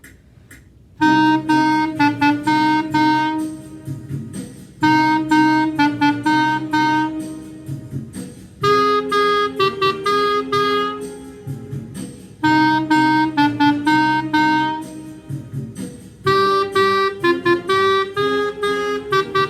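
Clarinet playing a slow blues melody in short phrases of long and short notes, with a brief rest after each phrase about every four seconds. The playing starts about a second in.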